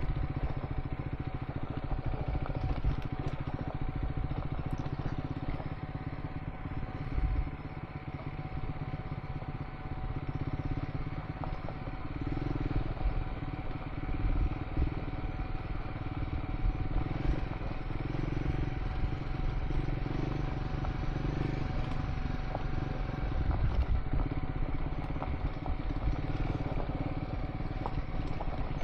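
Triumph Scrambler 400 X single-cylinder motorcycle engine running steadily while riding a gravel dirt track, with small knocks and rattles from the rough surface.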